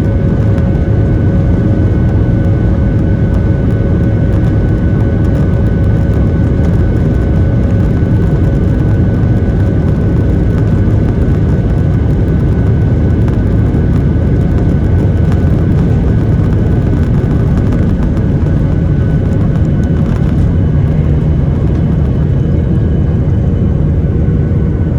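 Boeing 737-800 heard from inside the cabin: a steady low rumble from its CFM56 engines with two steady whining tones over it. The power holds level.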